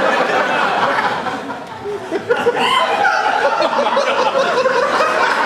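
Live audience laughing, with performers' voices mixed in.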